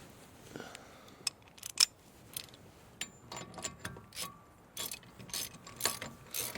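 Hand socket ratchet clicking in short, uneven strokes, running a nut down on a truck's front hub, likely the axle nut.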